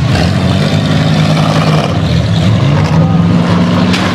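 Junk race cars' engines running on the track, their pitch rising and falling with the revs.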